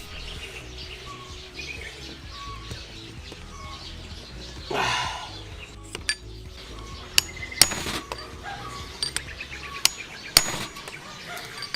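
Sharp metallic taps and knocks as a new fork oil seal is worked into a motorcycle fork leg, coming in a cluster over the last five seconds, with a brief noisy burst about five seconds in. Faint bird chirps sound in the background.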